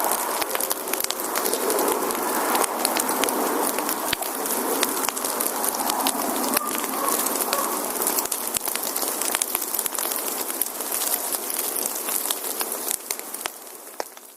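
Wood fire crackling: dense, irregular sharp pops and snaps over a steady hiss, fading out near the end.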